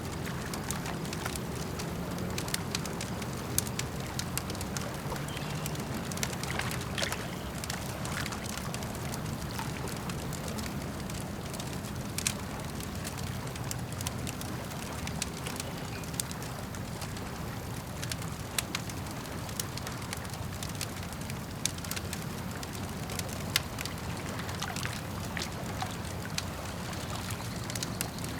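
Campfire crackling, with irregular sharp pops scattered throughout a few louder than the rest, over a steady wash of gently sloshing, gurgling lake water.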